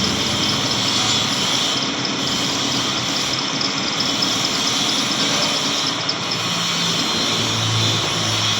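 A steady mechanical noise, like a motor running, with no clear breaks.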